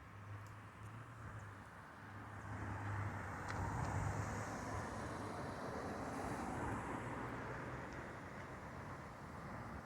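A vehicle driving past, its tyre and engine noise swelling to a peak a few seconds in and then fading away.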